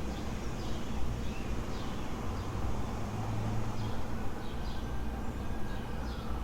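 Songbirds chirping in short, repeated falling notes over a steady low rumble of city traffic. A faint long tone slides down in pitch near the end.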